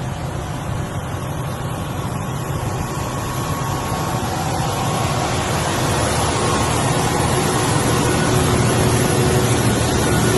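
A heavy truck's engine running steadily with a low hum, growing gradually louder.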